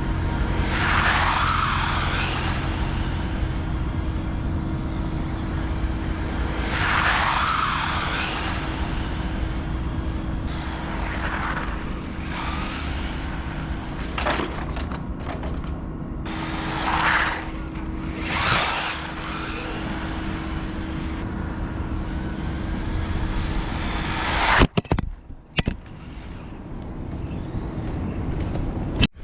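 Radio-controlled cars passing close by about five times, each pass swelling and fading, over a steady low rumble. The sound changes abruptly near the end to something quieter.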